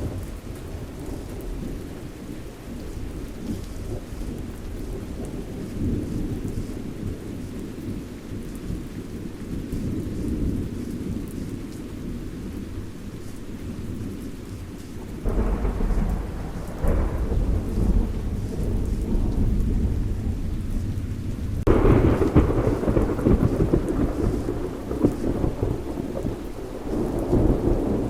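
Thunderstorm: steady rain with low rolling thunder, and thunder surging in suddenly about halfway through and again a few seconds later, louder the second time.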